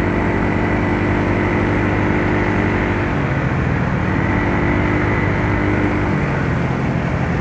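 Yamaha Mio Soul scooter's single-cylinder engine running, with steady wind and road noise. The engine note shifts about three seconds in and again about six seconds in.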